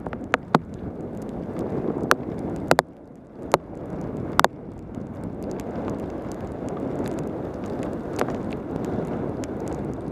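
Wind rushing over a helmet-mounted camera on a fast mountain-bike descent of a rain-soaked road, with the wet hiss of the tyres. A scattering of sharp clicks and knocks falls mostly in the first half, about half a dozen, with one more later.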